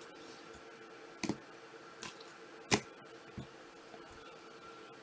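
Four light clicks and taps of handling trading cards and their plastic holders on a table, over a faint steady hum.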